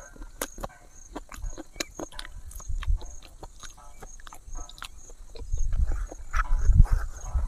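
Close-up chewing and lip-smacking of someone eating pork and rice: a quick, irregular run of wet mouth clicks. A low rumble joins about five and a half seconds in.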